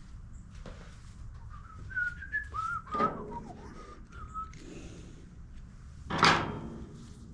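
A person whistling a few wavering notes softly, then a short, loud burst of noise about six seconds in.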